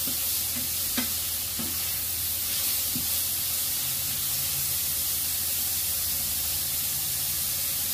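Bean sprouts and shredded chicken sizzling steadily in a nonstick frying pan, stir-fried with a wooden spatula that scrapes and taps the pan a few times.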